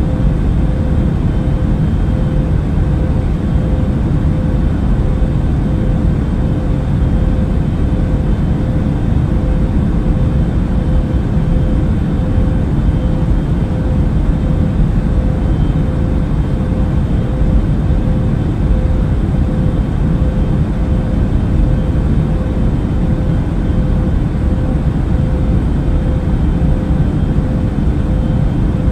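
Airliner cabin noise in flight: a steady deep rumble of engines and rushing air, with a constant hum tone riding above it.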